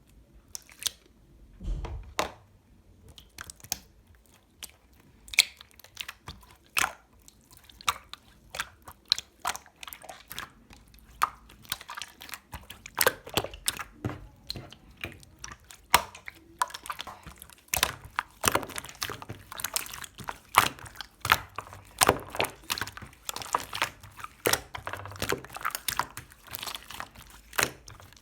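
Pink pearl slime being squished and worked by hand, making many sharp sticky clicks and pops. They are sparse at first and come much thicker in the second half.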